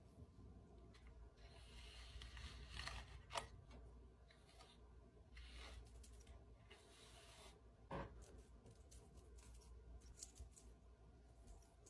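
Faint handling noises: short stretches of rustling and rubbing and two sharp clicks, about three and a half and eight seconds in, over a low steady hum.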